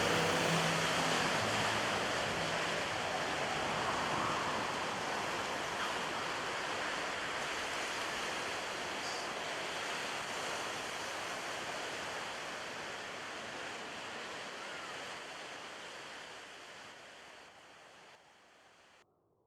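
A steady rushing noise that fades slowly and cuts off just before the end.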